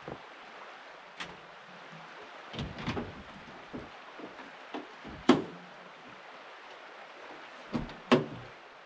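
Irregular knocks and thuds, hard objects being handled or set down, over the steady rush of a river. The loudest knock comes about five seconds in, and two more land close together near the end.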